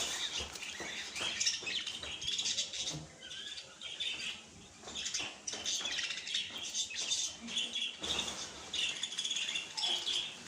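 Small birds chirping and twittering, many short high calls overlapping in quick succession.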